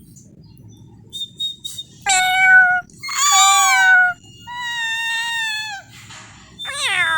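A domestic cat meowing four times, long drawn-out calls a second or so apart. The last meow slides down in pitch.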